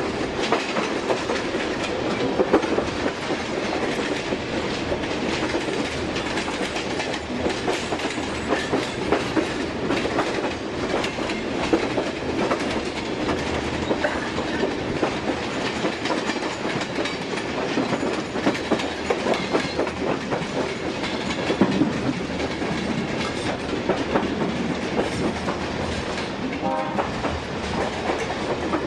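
Passenger train running along the line, heard from inside the carriage: a steady rumble of wheels on rails with frequent clicks and knocks as the wheels cross rail joints.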